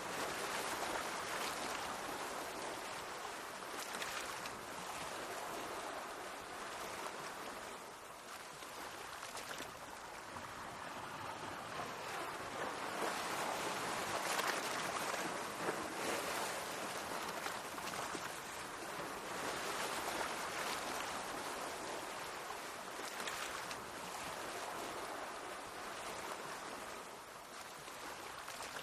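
Mediterranean sea waves washing against the shore, a continuous rushing that swells and eases every few seconds.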